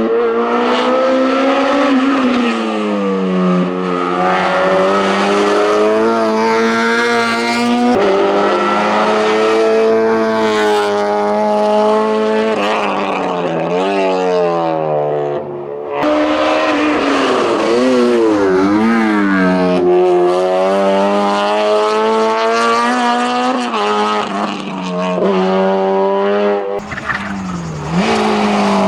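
Racing car engine at full throttle on a hillclimb, revving hard and rising in pitch, then dropping sharply at each gear change, over and over. The sound breaks off abruptly about sixteen seconds in and again near the end, then picks up at high revs again.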